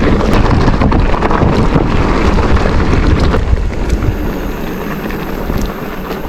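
Wind rushing over the microphone while riding downhill, loud and heavy in the lows, easing off about three and a half seconds in.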